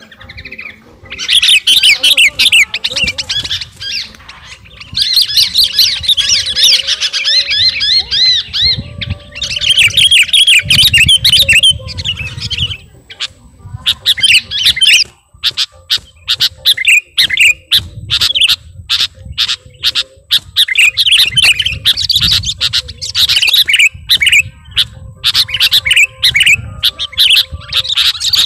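Sooty-headed bulbul singing loudly and continuously: long, warbling chattering phrases with short breaks, turning to runs of rapid, clipped notes in the second half.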